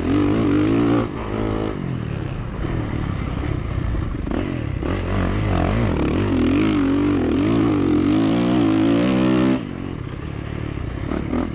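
Motocross dirt bike engine under hard throttle on a track, its pitch rising and falling repeatedly with the throttle and gears. The engine drops off abruptly near the end.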